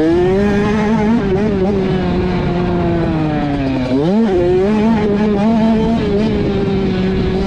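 Motocross dirt bike engine running hard at high revs, heard up close, with the revs sagging slowly, then dropping sharply and climbing straight back about four seconds in as the throttle is cut and reopened. Wind and track rumble sit under it.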